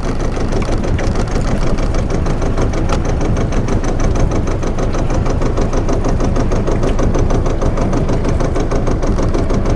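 Sailboat's engine running steadily at low revs while the boat motors slowly, a loud, even chugging with a fast ticking texture.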